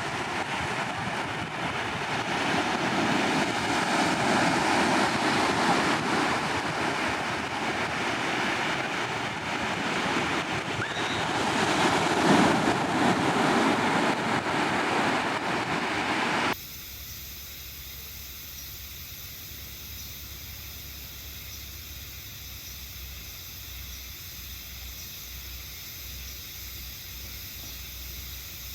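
Ocean surf breaking on the shore, a loud rushing wash that swells and ebbs. A little over halfway through it cuts off abruptly to a much quieter, steady high hiss.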